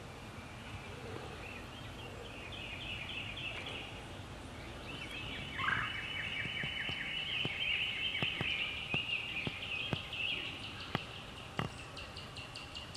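Birds singing outdoors in long, rapid trilled phrases, with a few sharp clicks through the second half.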